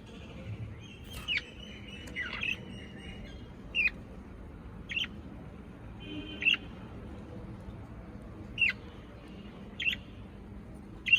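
A pet parrot giving short, sharp chirping calls, one every second or two, several of them dropping quickly in pitch.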